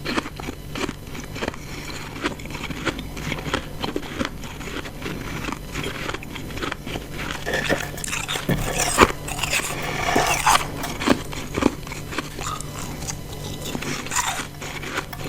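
Close-up crunching and chewing of ice chunks: a dense run of sharp, crackly crunches, loudest and busiest a little past the middle.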